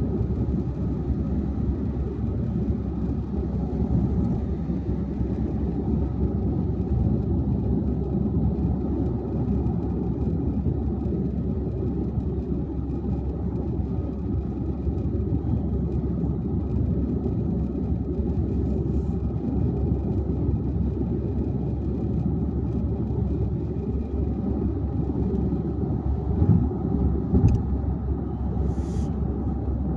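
Car driving at highway speed: a steady low rumble of tyres and engine, with a few brief bumps and clicks near the end.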